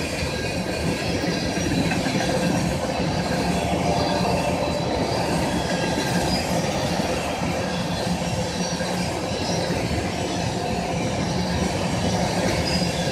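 A freight train's tank cars rolling past at track side, a steady rumble of steel wheels on the rails.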